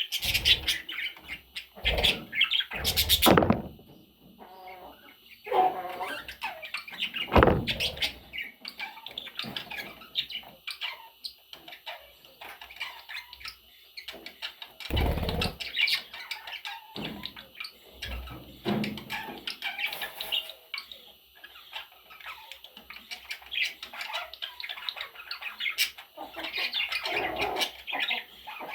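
Pet budgerigars chattering and chirping continuously, with several short, sudden knocks or thumps scattered through.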